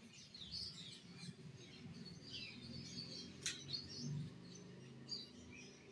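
Faint bird chirping in the background: short, high chirps scattered through, with a single sharp click about three and a half seconds in.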